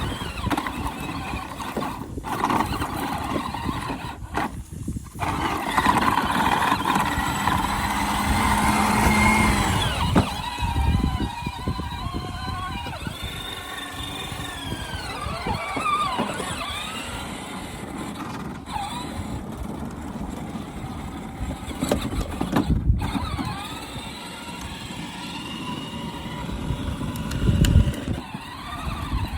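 Electric kids' ride-on toy tractor driving, its motor and gearbox whining with a pitch that rises and falls as it speeds up and slows.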